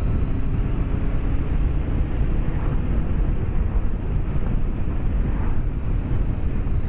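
BMW K1200S inline-four engine running at a steady cruise under heavy wind rush, heard through a microphone inside the rider's helmet.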